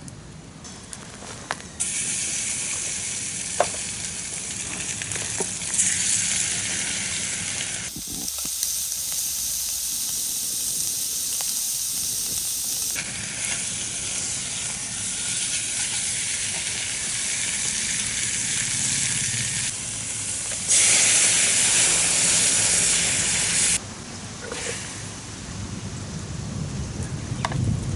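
Food sizzling in a pan over a campfire, a steady hiss with a few pops and crackles; the level jumps abruptly several times from one stretch to the next.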